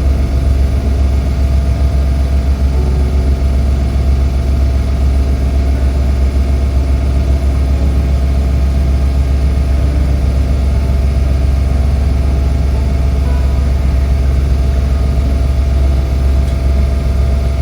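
Steady low engine drone of a Geneva lake shuttle boat, heard from on board, with a faint steady hum above it.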